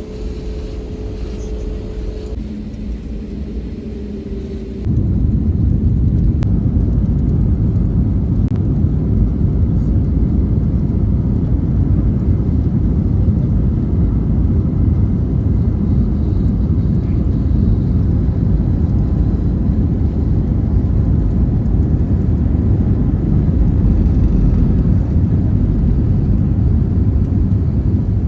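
Airliner cabin: steady low rumble of jet engines and airflow with a faint steady hum, jumping suddenly louder about five seconds in and staying loud, as on the takeoff roll and climb.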